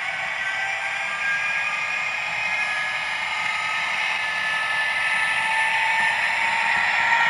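Hornby Twin Track Sound decoder in an OO gauge Class 67 model playing the locomotive's EMD V12 diesel engine sound through its small onboard speaker, thin and lacking bass. The engine sound runs steadily, then grows a little louder and higher toward the end as the revs are notched up.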